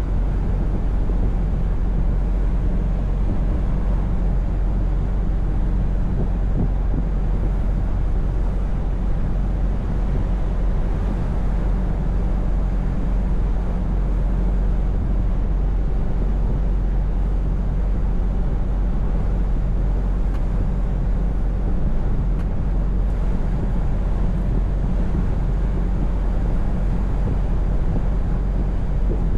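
Scania V8 truck's diesel engine running at a steady speed while driving, with a steady low drone and road noise that do not change.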